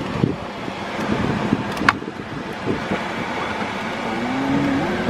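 A car running, heard as a steady rushing noise, with a short sharp chirp about two seconds in and a faint tone rising slowly in pitch near the end.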